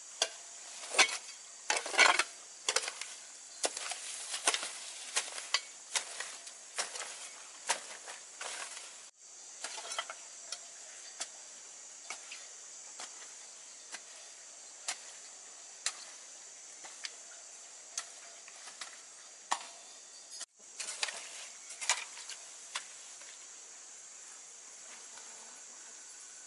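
Irregular sharp clicks and taps, several a second at first and sparser later, over a steady high-pitched insect drone.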